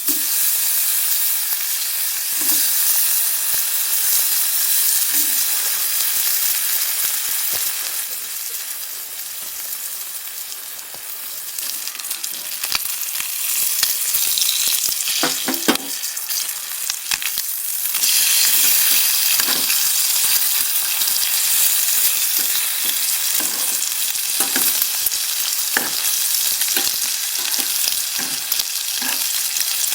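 Food sizzling in a pan, with scattered light knocks and scrapes of stirring; the sizzle eases a little about a third of the way in, then comes back.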